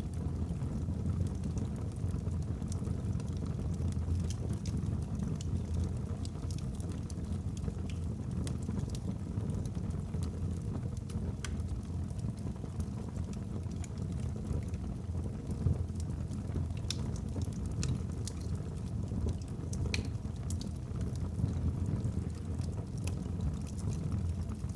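Wood fire burning in a fireplace: a steady low rumble of flames with scattered crackles and pops from the logs, a few sharper pops standing out.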